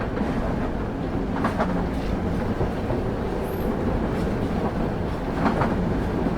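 Passenger train running steadily, heard from on board: a continuous low rumble of wheels on rail, with a faint wheel click about a second and a half in and another about five seconds in.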